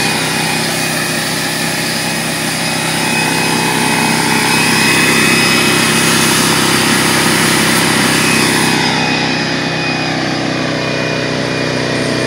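DeWalt 4.5-gallon belt-drive air compressor running steadily, its motor and pump building up tank pressure. It is running normally after its no-start fault was fixed.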